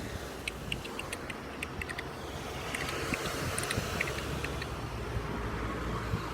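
Road traffic running past on a busy road, a steady rumble with tyre noise that swells as a vehicle passes about three to four seconds in. Faint short high ticks sound now and then over it.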